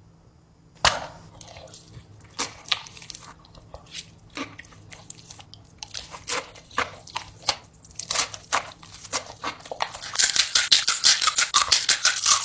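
A person chewing a mouthful of crunchy spicy food, crisp crunches coming in irregular bursts. In the last couple of seconds the crackling turns dense and louder.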